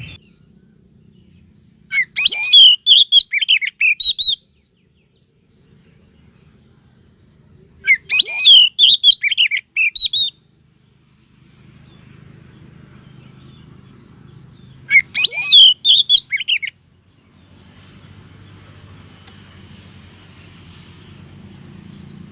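Oriental magpie-robin calling in three quick, high, warbling phrases of about two seconds each, several seconds apart: a female's sweet chatter, used as a lure to draw in males.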